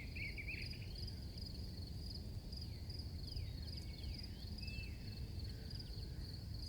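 Crickets chirping in a steady, evenly pulsing high trill, with a few faint falling chirps and a low steady rumble underneath.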